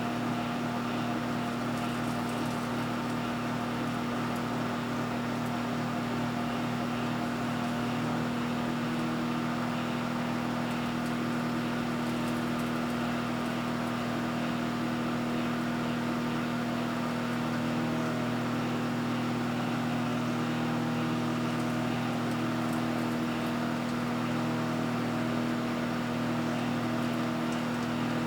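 Microwave oven running steadily while cooking a frozen pizza, a constant electrical hum with a low buzz.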